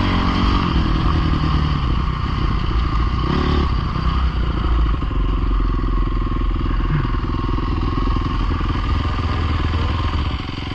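Dirt bike engine running loud and steady, its pitch rising and falling a little as the throttle changes.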